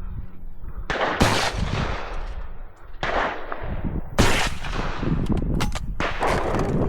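Two shotgun shots at clay targets about three seconds apart, the second the louder.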